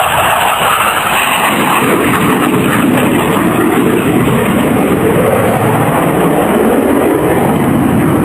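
Loud, steady engine noise of an aircraft flying past during a display, with the pitch of the noise shifting and bending as it moves.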